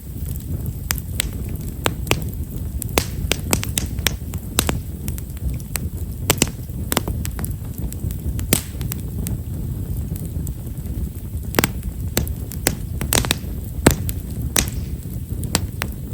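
Wood fire of Japanese stewartia (himeshara) logs crackling: a steady low rumble with frequent small, sharp pops at irregular intervals.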